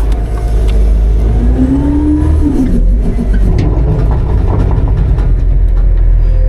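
Autocar-Heil Freedom front-load garbage truck running loud and steady, revving up, with a whine that rises from about a second in and falls away near the three-second mark.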